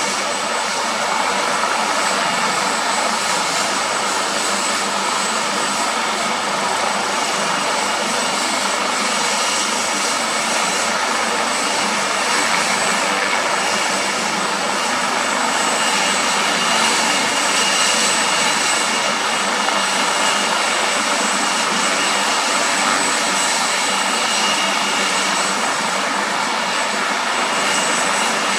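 Emergency helicopter's turbine engines running steadily, a constant rushing noise with a thin high whine above it.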